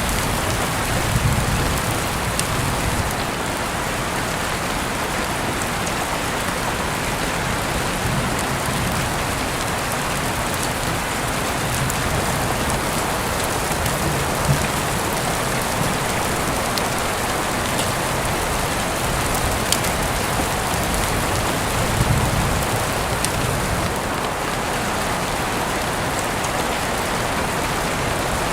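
Heavy rain falling steadily, a dense even hiss with scattered sharp drop ticks and a few brief low rumbles.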